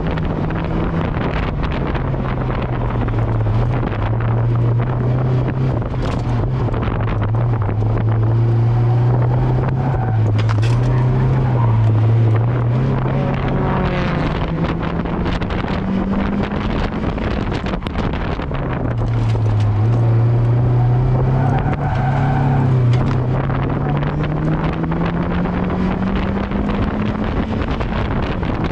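Mazda MX-5's four-cylinder engine being driven hard on a circuit, revs rising and falling. The note sits low for the first half, climbs sharply about two-thirds in, drops, then climbs steadily again near the end.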